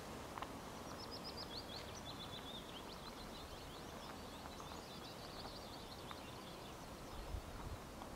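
Faint outdoor ambience with a small songbird singing a run of quick, high twittering trills. A brief low rumble comes near the end.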